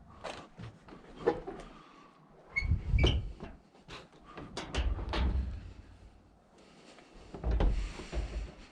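Discarded scrap being picked up and handled: a run of knocks and clatters, with three heavier low thumps about three, five and nearly eight seconds in.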